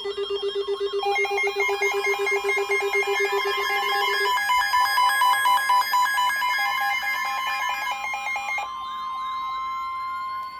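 Electronic emergency-alert tones: a steady high warning tone with several rapid pulsing and warbling alarm beeps layered over it. The beeps stop near the end, leaving the steady tone under a rising sweep.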